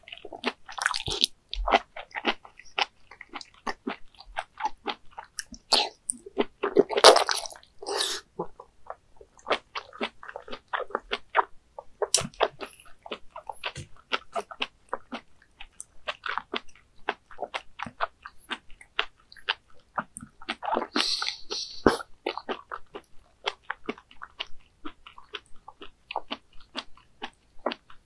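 A person chewing a mouthful of whole raw baby squid: a steady run of wet clicks and squelches. Longer, louder wet bursts come about 7 seconds in and again about 21 seconds in.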